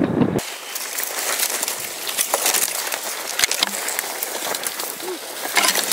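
Irregular rustling and crackling of dry field vegetation brushing and snapping as people walk through it, starting abruptly about half a second in.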